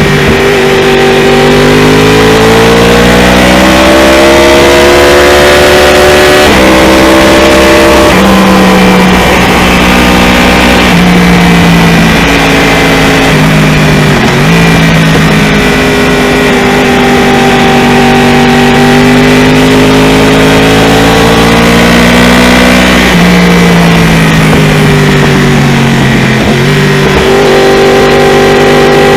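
2015 Yamaha R1's crossplane inline-four engine through a full Akrapovic exhaust, heard on board while riding. It pulls up through the gears, its pitch rising and then dropping sharply at each upshift, holds steady for a while in the middle, falls away as the bike slows, and rises again near the end as it accelerates.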